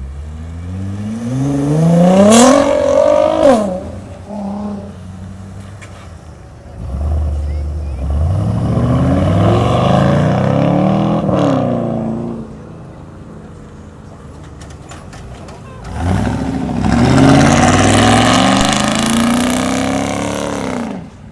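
Supercar engine free-revved while standing, three times: each rev climbs steeply in pitch, holds near the top and drops back to idle. A sharp exhaust crack comes as the first rev falls away.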